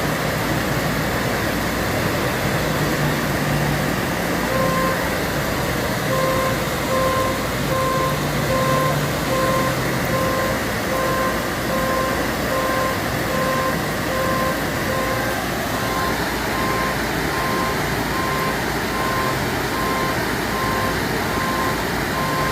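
A vehicle's backup alarm beeping steadily, roughly once a second, starting about four seconds in, over a continuous loud rushing noise.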